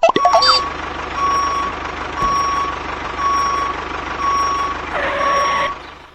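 Vehicle reversing alarm beeping about once a second, five beeps, over the steady hum of a running engine.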